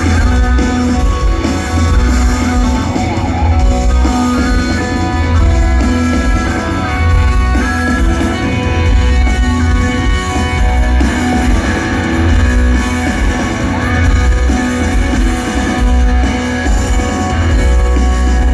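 A shoegaze rock band playing live and loud: electric guitars, bass and drums, with very strong bass.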